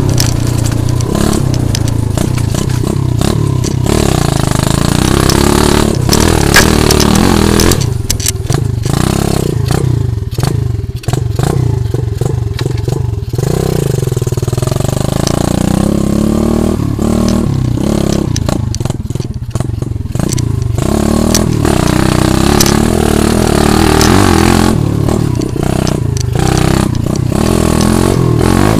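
80 cc pit bike engine revving up and down repeatedly as it is ridden, its pitch rising and falling with the throttle.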